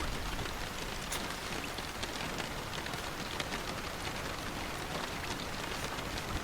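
Steady rainfall, an even hiss with many small drops ticking against a surface.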